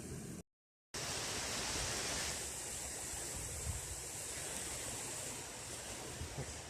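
Steady rushing noise of sea surf and wind on a beach, broken by a half-second gap of dead silence near the start.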